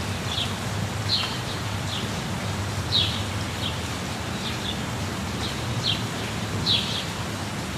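Steady rush of a waterfall, with a bird giving short, high chirps about once a second over it.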